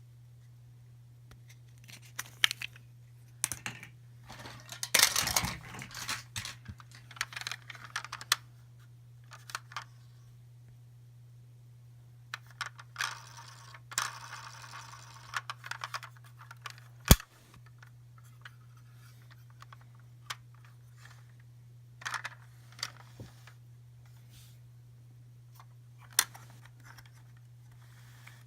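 Hands handling small plastic toys and packaging: scattered clicks and taps, with spells of rustling about five seconds in and again around fourteen seconds, and one sharp click about seventeen seconds in, over a steady low hum.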